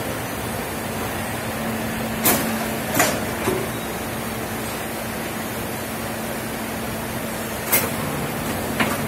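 CNC bed-type milling machine running with a steady hum and machining noise, broken by several sharp metallic knocks.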